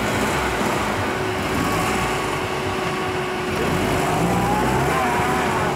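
Engine of a UAZ 4x4 off-road vehicle running under load as it crawls through a deep mud rut, a steady engine noise that grows a little louder about four seconds in.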